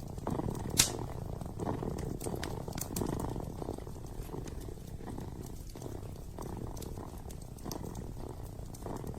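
A kitten purring, a low rumble that swells and fades in slow pulses, with scattered sharp crackles and pops from a wood-burning fireplace, one louder pop about a second in.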